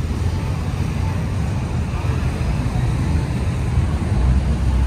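Car engines running as cars cruise slowly past, a steady low rumble.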